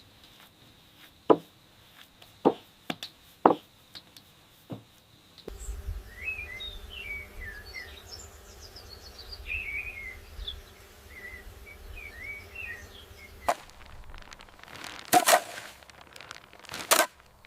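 Birds chirping over a low outdoor rumble, with sharp knocks for the first few seconds and a few louder knocks and rustling bursts near the end.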